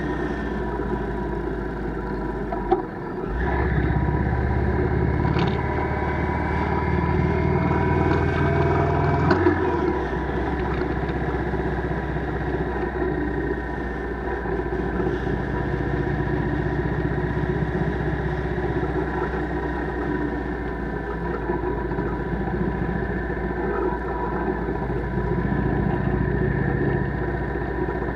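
Motorcycle engine running under way, steady with a low rumble. There is a sharp knock about three seconds in, and the engine pitch climbs gradually before dropping back about ten seconds in, as with a throttle change or gear change.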